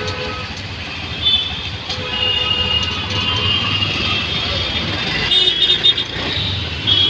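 Auto-rickshaw engine running steadily through city traffic, with vehicle horns beeping again and again: a longer horn around two to four seconds in and quick beeps near the end.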